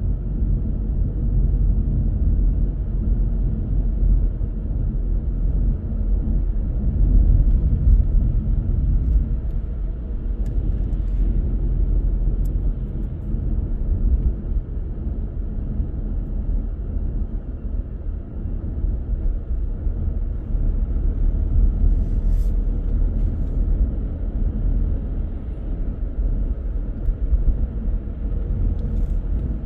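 A car driving steadily on the road: a continuous low rumble of engine and tyre noise.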